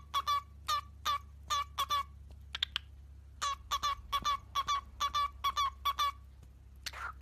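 A parrot squawking in a fast run of short, identical calls, about two to three a second, with a pause of about a second and a half partway through.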